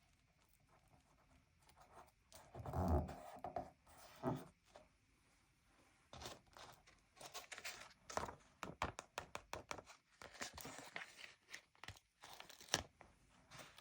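Paper stickers being handled and peeled off their backing sheet in a sticker book. A couple of soft handling thumps come first, then from about six seconds in a run of crackly, tearing peels and taps.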